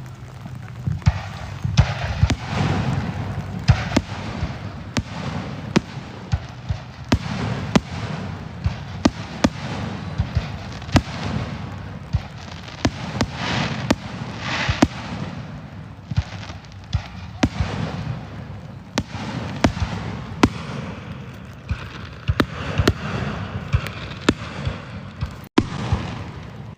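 Fireworks display going off: a running series of sharp bangs and pops over a low rumble, with swells of crackling around three to four seconds in and again about fourteen seconds in.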